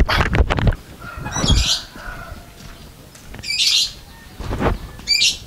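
A bird calling three times, each call a short quick run of high chirps, about two seconds apart, with a few dull low thumps in between.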